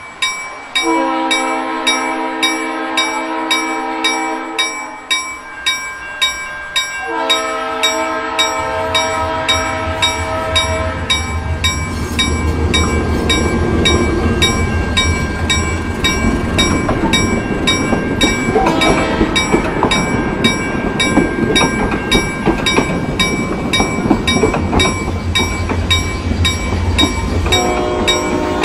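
Railroad crossing bell ringing about twice a second while an approaching freight train sounds two long horn blasts, then rumbles through the crossing with its wheels clacking over the rails; another horn blast begins near the end.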